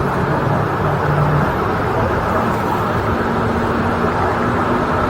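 Steady low vehicle rumble with a faint constant hum, with no sudden sounds on top.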